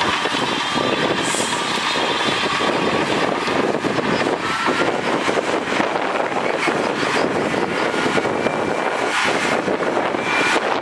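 Heavy earthmoving machinery running steadily at work, a dense diesel engine and machine noise with a few brief faint high squeals.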